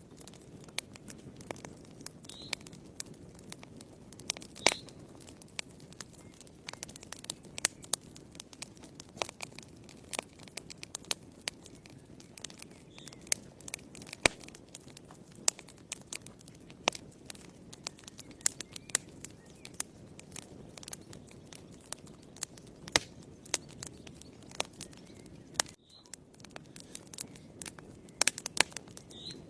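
Wood fire burning in a fireplace: irregular crackles and sharp pops over a steady low rustle of the flames.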